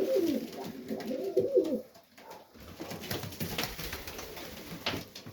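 Serbian Highflyer pigeons cooing in the loft: a run of rising-and-falling coos for about the first two seconds, then quieter, with a few faint clicks.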